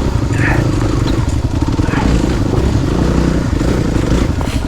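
Off-road motorcycle engine running at low revs, its note pulsing unevenly with the throttle as the bike works over rocky ground.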